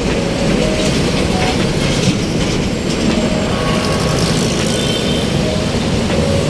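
Steady rumbling wind and road noise on the microphone of a moving bicycle, with traffic around it and a few faint short tones.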